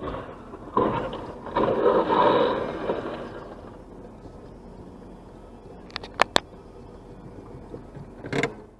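Road-vehicle sound with a loud scraping rush lasting about two seconds that then fades. A few sharp clicks follow near the middle, and a short noisy burst comes near the end.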